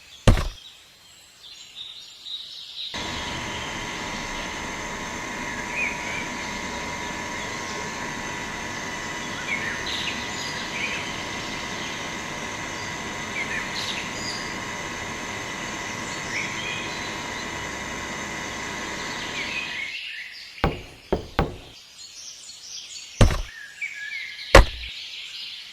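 Steady outdoor background noise with a thin, steady high whine and scattered short bird chirps. Several sharp clicks or knocks follow near the end.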